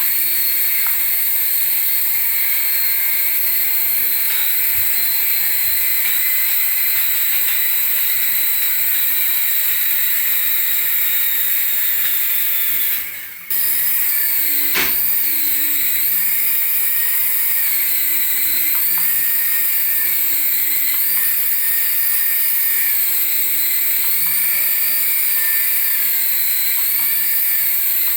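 Small electric motor of a radio-controlled toy whining at high pitch, with its pitch stepping up and down repeatedly as the throttle is changed. It cuts out briefly about halfway through.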